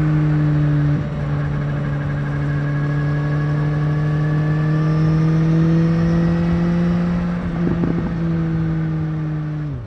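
BMW S1000R inline-four engine running under load while riding. After a brief break about a second in, the revs climb slowly, then fall away near the end as the throttle is closed.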